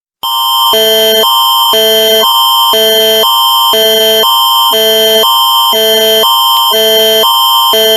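Canadian Alerting Attention Signal (Alert Ready): a loud electronic alarm switching back and forth between two chords about every half second for about eight seconds, signalling that an emergency alert message follows.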